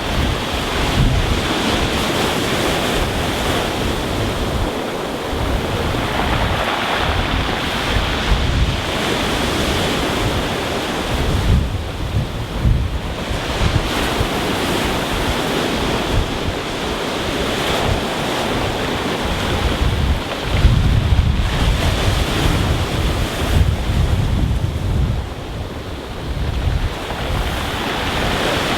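Rough sea, waves breaking and washing over a pebble beach, swelling and easing every few seconds, with wind buffeting the microphone as a low rumble.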